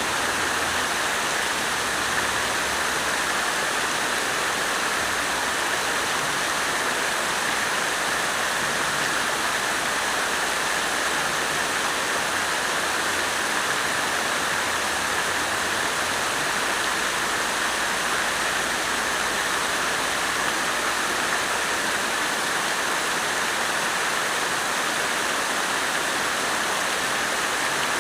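Water splashing from a fountain, a steady even rush that does not change.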